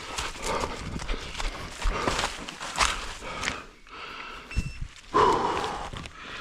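Running footsteps through forest undergrowth, heard up close from the runner's own camera, with irregular thuds and rustling of leaves and brush. A louder rustling burst comes about five seconds in.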